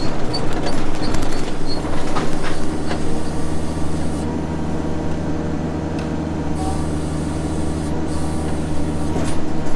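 An engine running steadily at a constant speed, with a few light clicks or rattles in the first three seconds.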